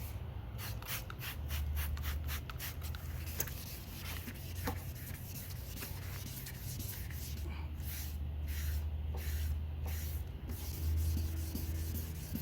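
Wet sanding a truck's plastic headlight lens by hand with 1000-grit sandpaper and soapy water: quick back-and-forth rubbing strokes, about three a second, in a run near the start and another past the middle.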